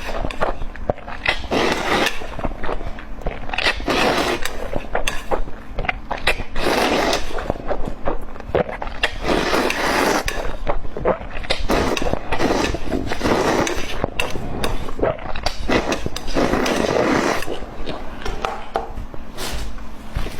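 A person eating close to the microphone: wet chewing, biting and smacking, with crackly clicks and several denser bursts of chewing.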